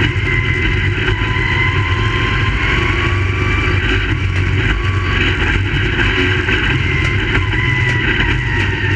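Dirt-track race car engines running steadily at speed, a loud continuous engine sound with pitch that wavers slightly up and down.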